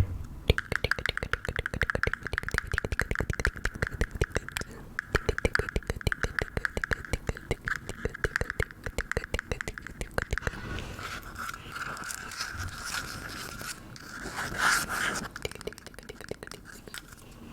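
Close-miked ASMR trigger sounds: a dense run of rapid clicks lasting about ten seconds, then a softer scratching texture with one brief louder swell near the end.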